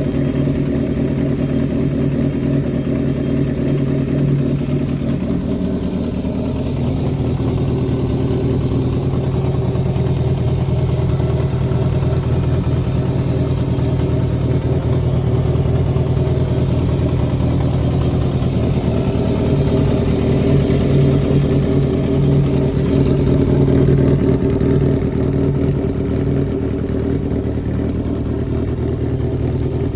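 Yamaha XJR400's air-cooled inline-four engine idling steadily, its pitch and loudness shifting slightly a couple of times. It runs evenly, with no abnormal noises according to the seller.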